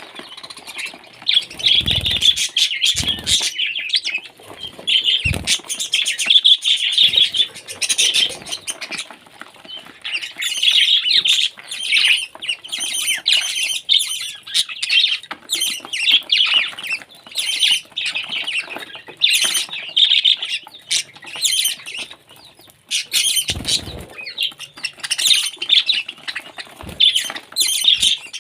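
Pet parrot chirping and squawking in quick, repeated short calls, with scattered clicks and a few brief low thumps.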